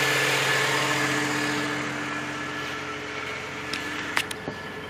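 1993 pickup truck's engine idling steadily, slowly growing quieter, with a couple of sharp clicks near the end.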